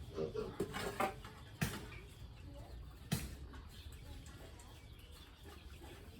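Pigs grunting softly in a pen, with a few sharp knocks at about one, one and a half and three seconds in.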